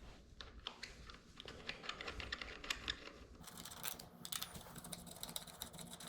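Faint, irregular light clicks and taps of hand tools and small metal parts being handled during a dirt-bike teardown. A faint steady low hum comes in about three and a half seconds in.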